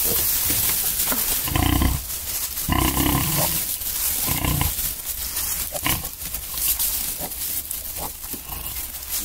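Pigs calling in a pen: three short, loud grunting squeals in the first half, with a few scattered knocks of movement afterwards.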